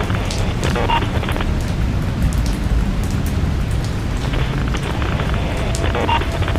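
Steady rain: a dense hiss of rainfall over a deep low rumble, with scattered sharp drop ticks.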